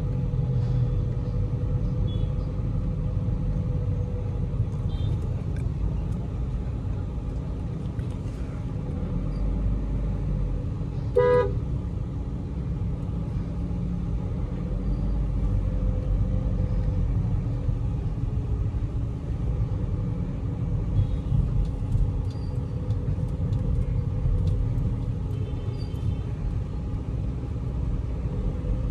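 Steady low road and engine rumble inside the closed cabin of a moving Volkswagen Vento, with the air conditioning running. About eleven seconds in, a car horn gives one short toot.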